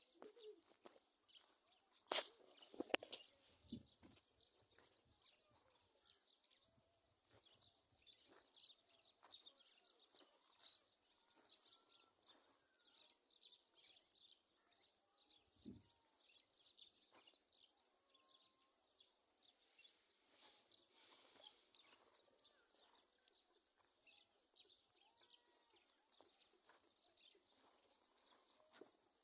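Insects chirring in one steady, high-pitched drone, over faint scattered ticks and rustles. A few sharp knocks come about two to three seconds in.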